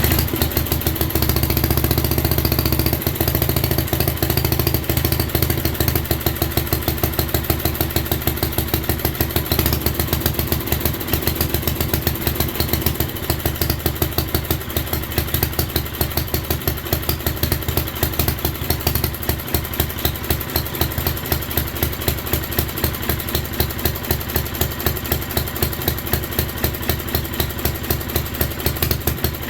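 7 hp Briggs & Stratton single-cylinder engine of a 1967 Unico garden tractor running steadily with an even, quick pulsing beat, just after firing up on its first run in 27 years.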